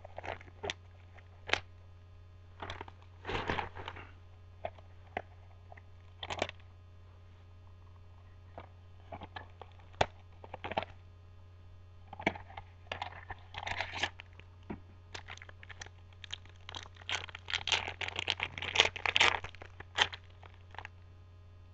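A baseball card pack's wrapper being torn open and crinkled, with sharp clicks and scrapes as the cards are handled. The crinkling is densest in the second half, all over a faint low hum.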